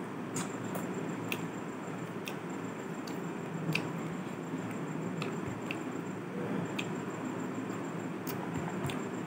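Mouth sounds of someone eating chicken curry and rice by hand: chewing with scattered small wet smacks and clicks, about ten in all, over a steady low hum.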